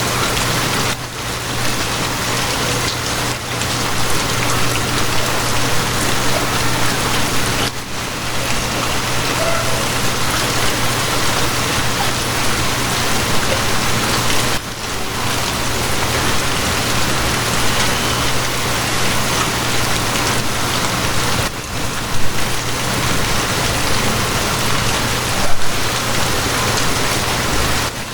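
Steady rain falling and pattering on surfaces, with a low steady hum underneath.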